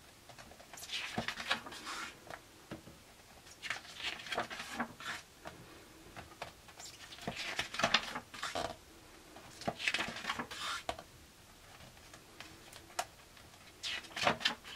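Pages of a hardback graphic novel being turned one after another, each turn a short papery rustle, about half a dozen spaced a couple of seconds apart.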